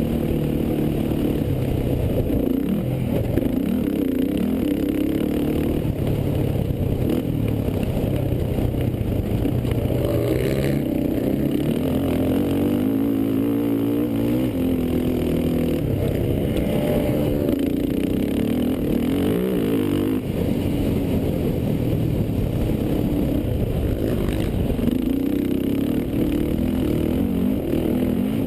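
Racing quad (ATV) engines revving, their pitch rising and falling again and again as they run.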